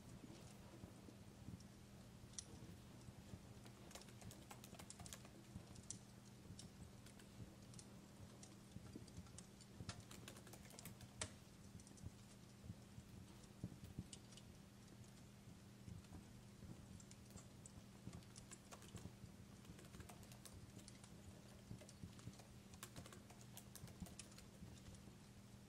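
Faint fireplace crackling: irregular small pops and snaps over a steady low hum.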